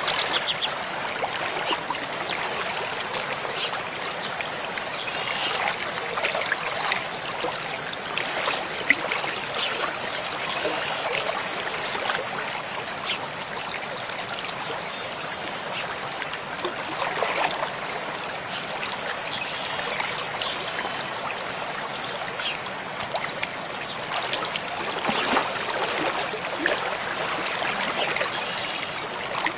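Mountain stream flowing steadily: a continuous rushing babble of water with small irregular surges.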